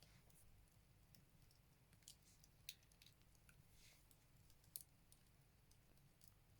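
Firewood crackling as it burns in a Buleryan wood stove: faint, scattered small clicks with a few sharper pops, the loudest about two and a half seconds in and again near five seconds.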